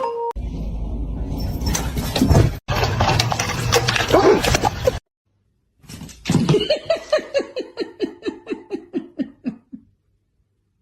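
A person laughing: a long run of quick 'ha' pulses, about four or five a second, falling in pitch and fading away over about four seconds. Before it come a few seconds of busy, noisy clip sound, broken by a sudden cut.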